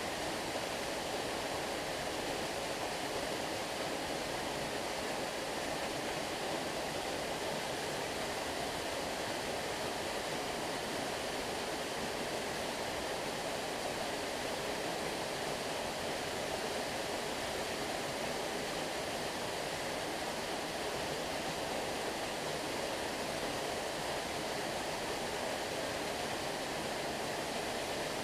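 Flowing stream water, a steady unbroken rush with no splashes or breaks.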